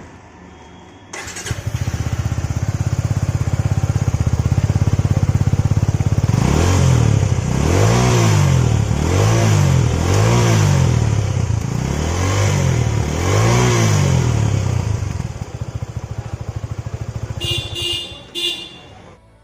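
Suzuki V-Strom SX 250's 249 cc single-cylinder engine started on the electric starter about a second in, idling steadily through its twin-outlet exhaust, then revved with five quick throttle blips before settling back to idle.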